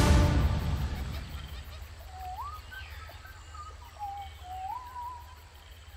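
The last chord of an orchestral trailer score dies away, leaving quiet jungle ambience. Over it come a few bird whistles that slide upward in pitch, about two seconds in and again about four seconds in.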